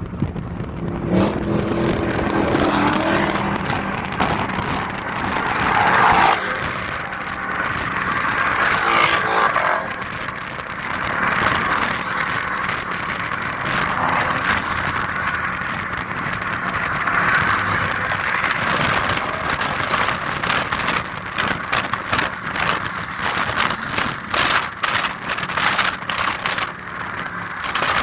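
Cars driving past one after another, engines revving, the sound swelling and fading as each one passes.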